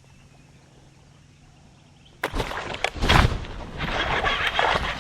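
A faint low hum, then, about two seconds in, a burst of loud splashing and knocking: a hooked bass thrashing at the surface beside a kayak.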